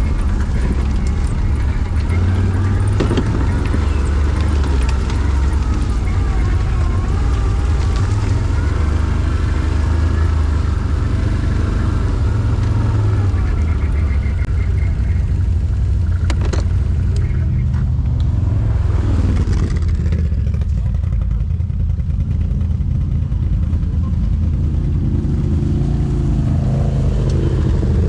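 ATV (quad bike) engine running under way, steady for most of the stretch, its pitch climbing near the end as it revs up.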